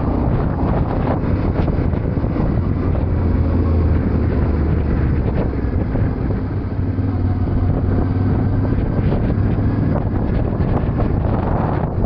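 Yamaha Ténéré 700 parallel-twin engine running steadily while riding, with wind noise on the microphone.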